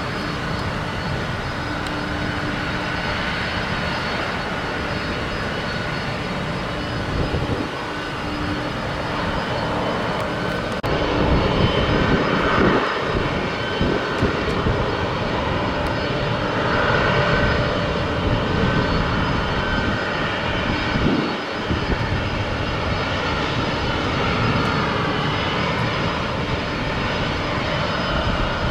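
Airplane engines running with a continuous drone and a few steady tones, growing louder about eleven seconds in.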